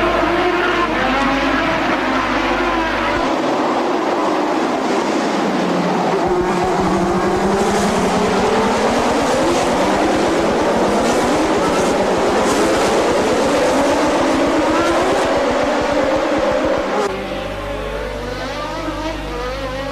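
Formula One car engine at racing revs, its pitch dropping as it slows a few seconds in, then climbing steeply as it accelerates hard and holding high. Near the end the sound switches to a quieter steady hum.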